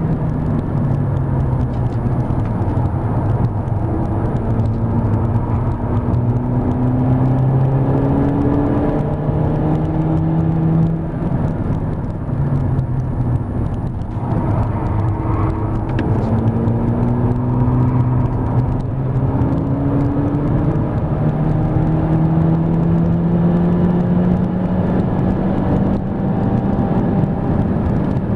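A Mk5 VW Golf GTI's 2.0-litre turbocharged four-cylinder engine, heard from inside the cabin, accelerating hard on track. The engine note climbs in pitch several times as it pulls through the gears, with a short dip in level about eleven seconds in, over steady tyre and road noise.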